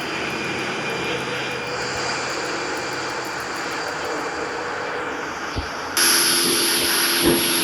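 Airbus A319-132's IAE V2500 turbofan jet engines running at takeoff power: a steady roar with high whining tones. About six seconds in, a sudden, louder hiss cuts in and carries on.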